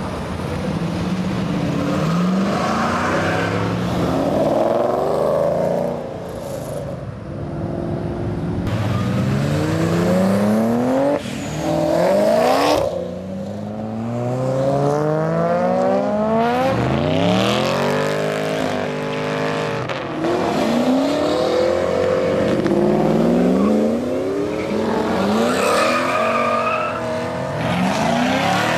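Performance car engines accelerating hard one after another. The pitch climbs steeply, drops back and climbs again through the gear changes.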